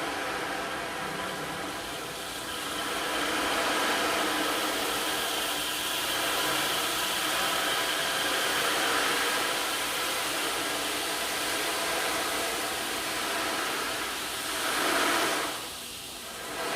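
Sound-bath instruments: a steady rushing hiss with several faint ringing tones held underneath, swelling in two wave-like surges near the end.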